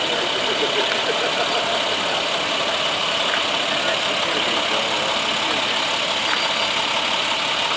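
Truck engine running steadily at idle, with faint voices in the background.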